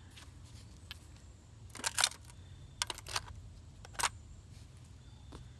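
A few sharp plastic clicks and clacks from RC model cars and truck parts being handled and set in place, in two quick pairs and then a single click, over a faint steady low hum.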